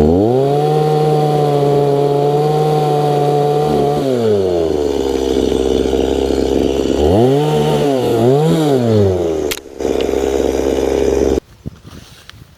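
An engine revs up and holds a high steady speed for about four seconds, then drops to idle. It is blipped up twice in quick succession and cuts out briefly. Near the end the sound drops suddenly to a quieter clatter.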